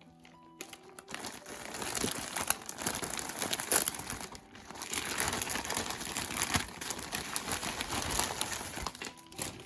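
Packaging being crumpled and rustled as a parcel is unwrapped by hand, an irregular crinkling that goes on for most of the stretch with louder crackles here and there.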